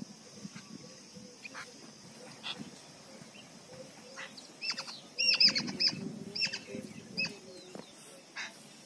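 Birds calling outdoors: a quick run of short, sharp, falling chirps from about four and a half to seven and a half seconds in, over a steady high hiss, with a low rumble under the loudest chirps.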